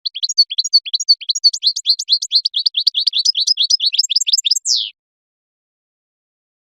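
Goldfinch singing: a fast, twittering run of short high chirps for about five seconds, ending in one longer note that slides downward.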